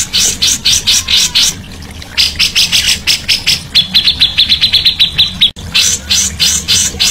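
Songbird singing loudly in rapid repeated sharp chirps, about four or five a second. A faster, even run of notes comes in a little past halfway and breaks off abruptly before the chirping resumes.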